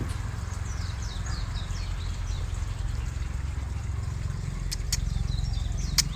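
Birds chirping in short, quick, falling calls over a steady low rumble, with a few sharp clicks near the end.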